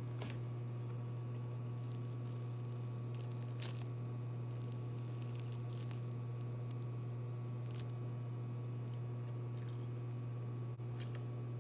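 Close-up mouth sounds of eating a sauce-covered chicken wing: bites and wet, crunchy chewing coming in short bursts every second or two. A steady low hum runs underneath.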